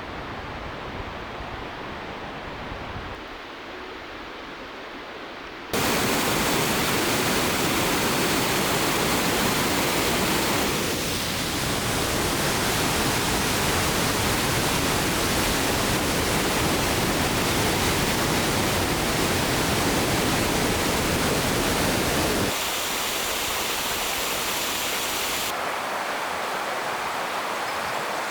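Rushing water of a creek or waterfall, a steady roar. It is duller and quieter for the first six seconds, then jumps to a louder, fuller rush, and drops back somewhat about 22 seconds in.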